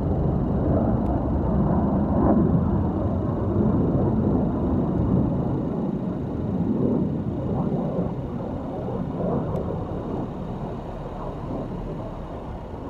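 Aircraft engine noise, a steady rumble that fades gradually over the second half as the aircraft draws away.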